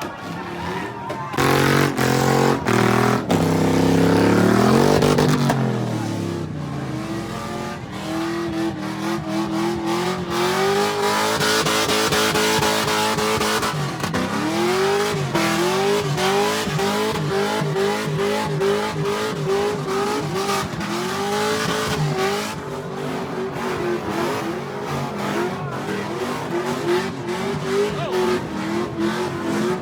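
A high-powered car engine revving hard over and over, its note climbing and dropping in quick repeated throttle blips, with tyre squeal from cars spinning their wheels.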